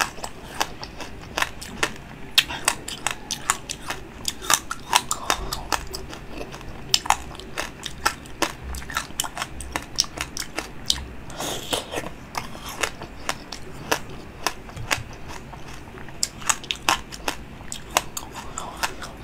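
Biting and chewing frozen fruit pops: a constant irregular run of sharp crunches, several a second.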